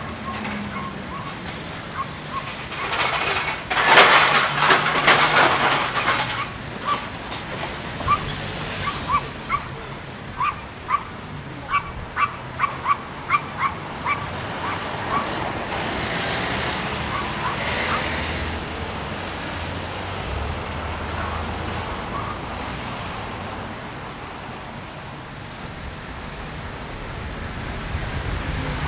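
Waves washing on a beach, with a loud rush of surf about four seconds in. A small dog yaps over it in a rapid series of short barks, about two a second, through the middle.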